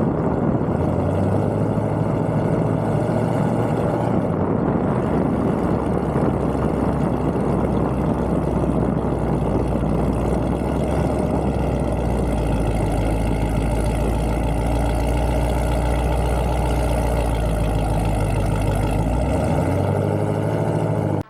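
Car engine running steadily at a low, fairly even speed, with a deep, steady drone and no hard revving.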